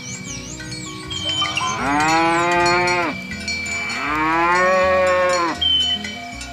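Cow mooing twice, two long calls of about a second and a half each. The pitch rises at the start and drops away at the end of each call.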